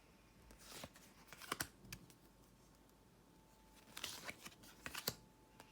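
Tarot cards being handled: faint swishes and light clicks of thick card stock sliding and being laid down, in two short flurries, about a second in and again about four seconds in.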